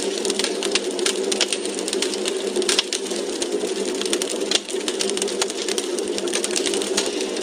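Wood fire crackling in a fireplace: a dense, irregular run of sharp pops and snaps over a steady rushing hiss.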